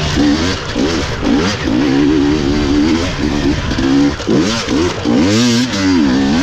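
GasGas EC250 two-stroke enduro engine revving hard and constantly on and off the throttle, the pitch swinging up and down with repeated blips, with one big rise and fall about four and a half seconds in.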